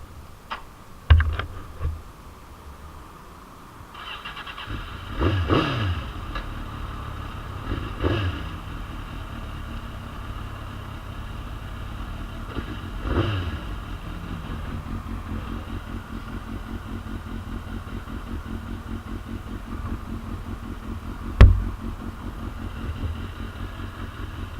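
A 2001 Suzuki GSX-R750's inline-four engine starts about four seconds in, is blipped three times with quick rises and falls in pitch, then idles steadily. A few sharp knocks come before it starts, and one sharp knock comes near the end.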